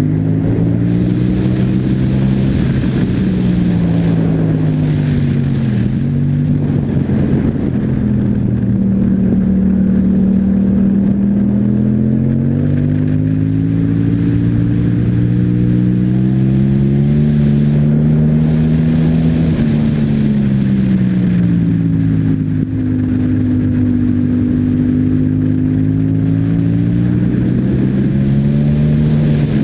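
Yamaha MT-07's parallel-twin engine through an Akrapovič exhaust, ridden in traffic: the revs climb and fall again and again as the bike accelerates and eases off.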